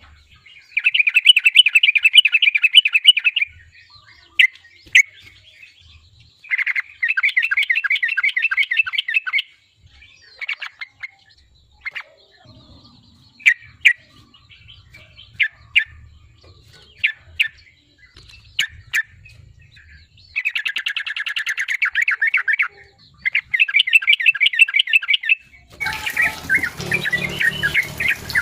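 Yellow-vented bulbul (trucukan) singing in fast, rattling trilled phrases of about three seconds each, with short single notes in the gaps. This is the full, vigorous 'gacor' song used as a lure to set other trucukan singing. Near the end the song runs on over a noisier, busier background.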